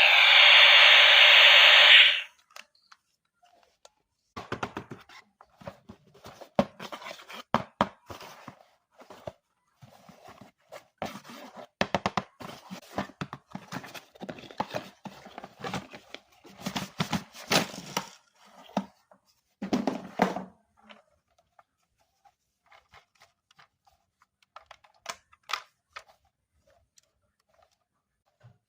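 A loud, steady electronic buzz cuts off suddenly about two seconds in. It is followed by irregular crackling, scraping and knocking from a plastic toy and its packaging being handled, busy for a long stretch and then thinning to occasional clicks.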